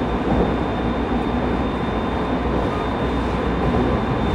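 JR East 209 series 2100 subseries electric train running on the line, a steady rumble with a faint steady high tone over it.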